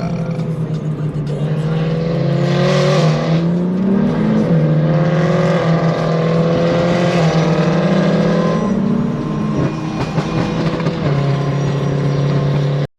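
Car engine and exhaust droning under way, the note stepping up and down a few times as the throttle and speed change; it cuts off suddenly near the end.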